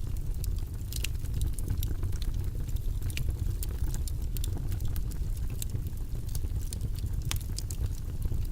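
Steady, low-pitched white-noise track with scattered light clicks and taps over it, the small sounds of desk work.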